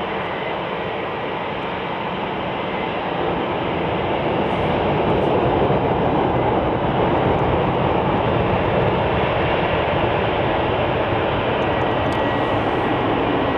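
Jet noise from a Boeing C-40C (737-700) and its two CFM56 turbofans as it lands, a steady rushing rumble that grows louder about four seconds in and then holds.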